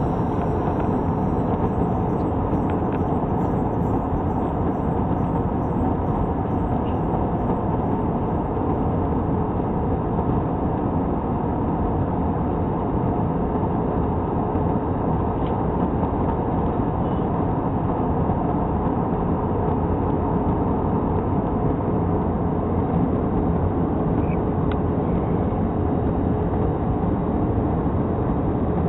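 Airliner cabin noise in flight: a steady rush of engine and air noise with a constant hum underneath.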